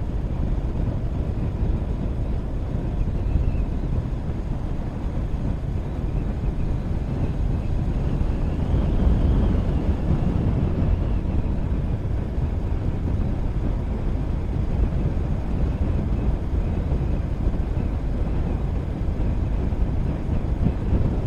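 Motorcycle under way: a steady low rumble of engine, road and wind on the camera microphone, swelling slightly about nine seconds in.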